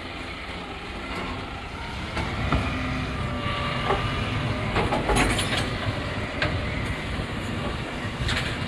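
A road vehicle running: a steady low rumble with scattered knocks and rattles.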